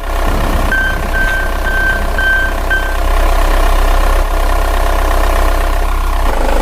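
Truck engine idling steadily, with five short high-pitched reversing beeps, about two a second, in the first half.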